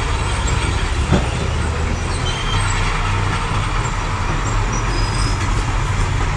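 Diesel engine of heavy earthmoving machinery running steadily under load, with a single knock about a second in and faint high squeaks of metal on metal.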